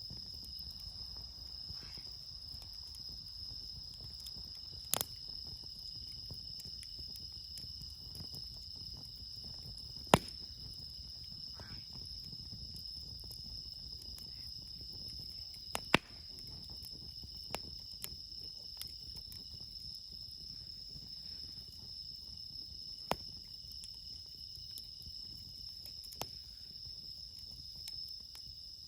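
Insects, bell crickets among them, chirping in a steady high chorus, with the sharp pop of crackling campfire wood every few seconds, the loudest about a third and halfway through.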